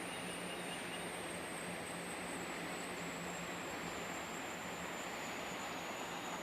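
Steady outdoor ambient hiss with no distinct events, and a faint, thin high tone sliding slowly down in pitch.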